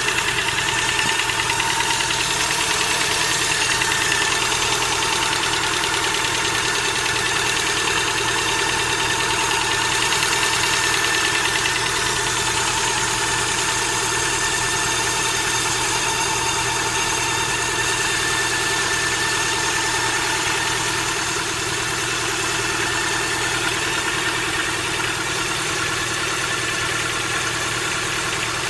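Car engine idling steadily with a fast, even ticking from the valvetrain. The tapping is the knock of hydraulic lash adjusters (lifters).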